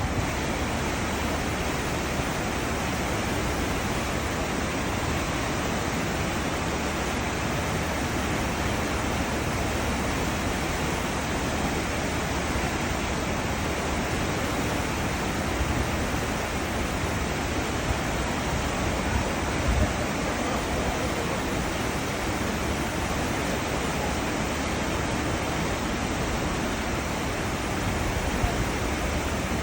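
Churning water of a cruise ship's wake, a steady rushing noise.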